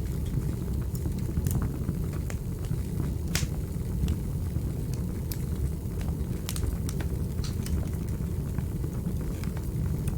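Fire burning in a fireplace: a steady low rumble of flames with irregular sharp crackles and pops from the burning wood.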